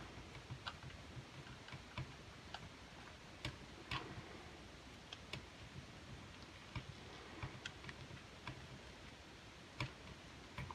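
Faint, irregular light clicks of a screwdriver turning the grip screw into a Bond Arms derringer's grip.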